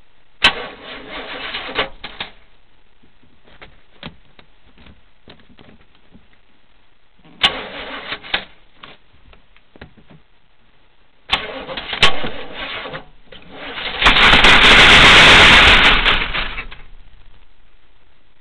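Big-block Chevy 454 V8 being cranked by its starter in three short bursts of a second or two, each starting with a click, on its first start after sitting ten years. Near the end it catches and runs loudly for about two seconds, then dies away.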